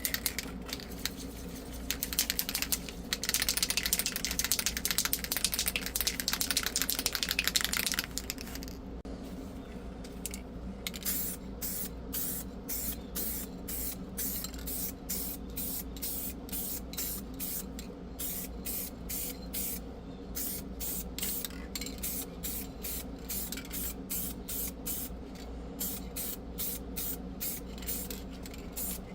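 A sprayer hissing over a steady machine hum: a continuous spray for about five seconds, then quick regular spurts about twice a second.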